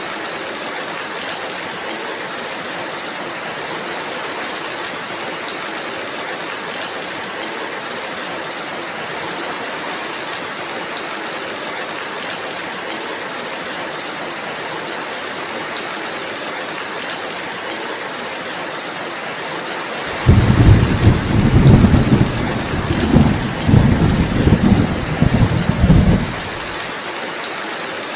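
Steady rain falling throughout. About twenty seconds in, thunder rumbles for around six seconds in several surges, much louder than the rain, then stops abruptly.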